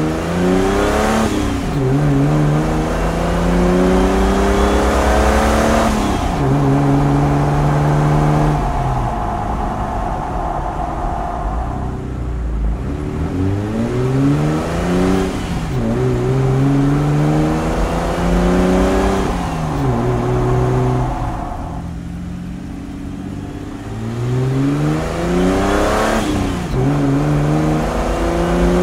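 A 2001 Jeep Wrangler TJ's 4.0-litre straight-six engine pulls through the gears of its five-speed manual gearbox, with a K&N air filter in the stock intake. The engine note climbs and drops back at each gear change, several times over, and goes quieter for a couple of seconds about three-quarters of the way through before pulling again.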